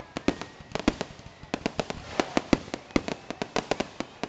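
Aerial fireworks crackling and popping: a rapid, irregular string of sharp reports, several a second, from a barrage of crackling stars.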